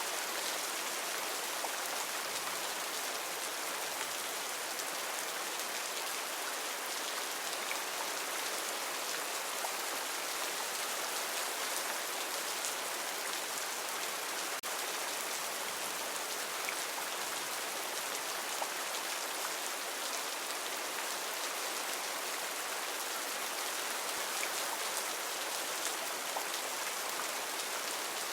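Heavy rain falling steadily: a dense, even hiss with little low rumble and scattered ticks of single drops.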